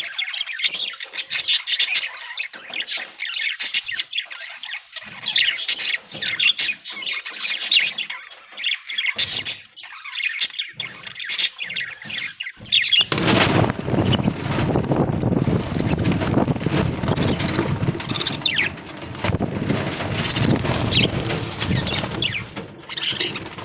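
A flock of budgerigars chirping and chattering in rapid high calls. About halfway through, a steady rushing noise starts and carries on under the chatter.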